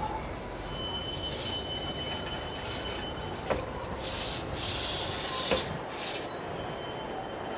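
Wheels of a TEMU1000 Taroko train squealing and screeching against the rails as it is pushed slowly through the yard, with thin high whines and several hissing screeches. A few sharp clicks are heard, about three and a half and five and a half seconds in.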